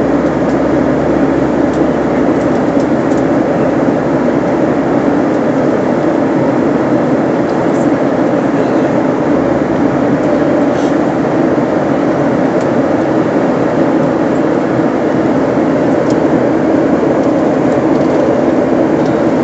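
Steady engine and airflow noise heard inside a passenger plane's cabin, an even hum that does not change.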